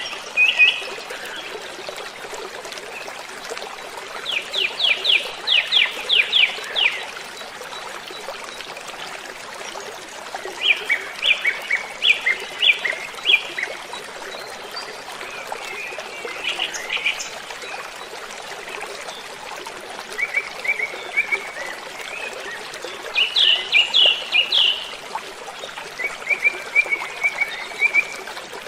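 Waterfall rushing steadily, with a songbird singing about six short phrases of rapid, high repeated chirps a few seconds apart.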